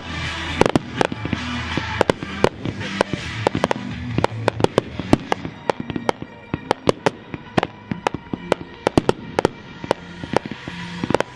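Consumer firework cakes firing a finale barrage: a rapid, irregular string of sharp bangs, with music playing underneath.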